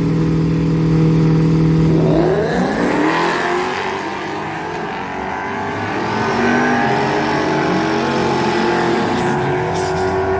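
Drag-racing cars held at steady revs on the starting line, then launching about two and a half seconds in. The engine note climbs and rises and falls as they pull away down the strip.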